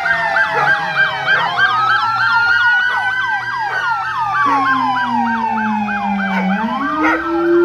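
Several fire truck sirens sounding at once: a fast yelp repeating about four times a second over slower wails that rise and fall. A lower tone sinks and then climbs again near the end.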